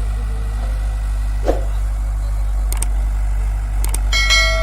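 Diesel engine of heavy machinery running steadily at a low, even drone. There is a sharp knock about a second and a half in and a couple of light clicks later. Near the end comes a ringing tone with several overtones.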